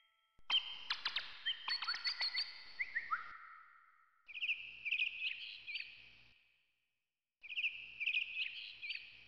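Bird-like chirping and quick warbling trills in three bursts, each starting suddenly and fading away.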